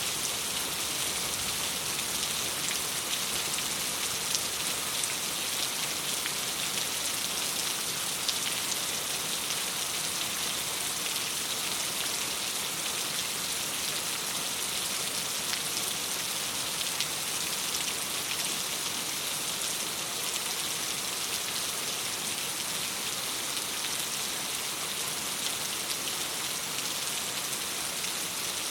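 Steady rain pattering on window glass, an even hiss with scattered sharp ticks of single drops.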